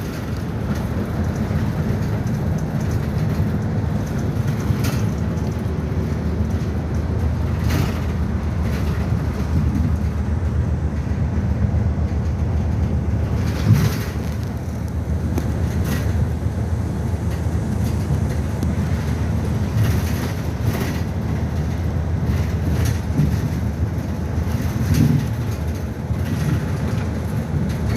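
City bus running, heard from inside the passenger cabin: a steady low engine and road rumble, with a few brief knocks and rattles along the way.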